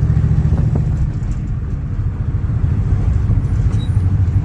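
Old hot rod's engine running while driving down the road, a steady low rumble that eases off a little in the middle and picks back up near the end.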